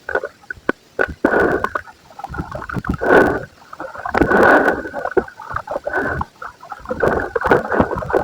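Soft white concrete being crumbled and crushed, a run of crunching bursts full of small crackles and sharp snaps, with the longest crunches about three and four and a half seconds in.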